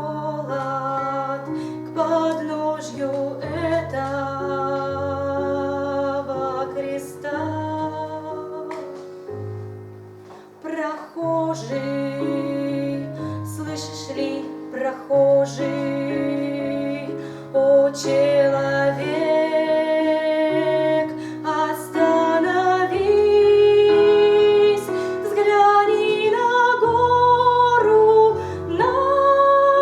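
A song: a woman's voice singing over instrumental accompaniment, with long held notes above a moving bass line.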